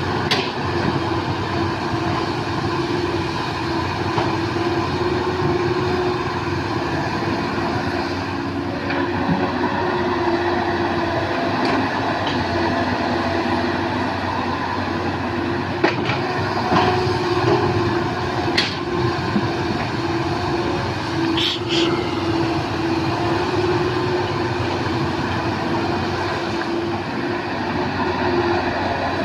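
Hydraulic excavator's diesel engine running steadily under working load with a constant hum. A few short sharp knocks stand out, about 16, 17, 18.5 and 21.5 seconds in.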